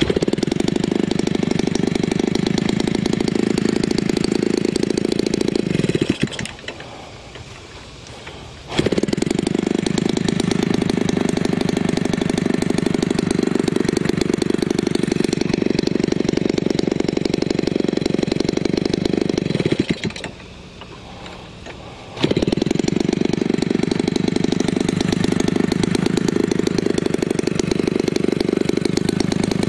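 Homelite 30cc two-stroke single-cylinder engine, converted from a leaf blower for a model plane, running at high throttle. It is throttled back to a much quieter idle twice, about six and about twenty seconds in, falling in pitch each time, and opened back up sharply after a couple of seconds.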